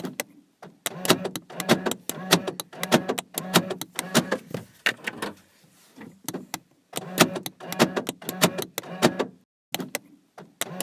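Runs of sharp clicks, about three or four a second, with a short pause near the middle and another near the end.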